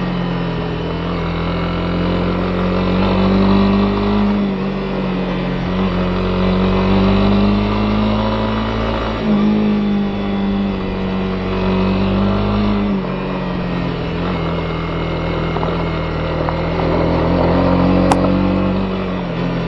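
Honda CB250R's single-cylinder four-stroke engine running steadily while riding, its note shifting slightly in pitch a few times with the throttle. A single sharp click near the end.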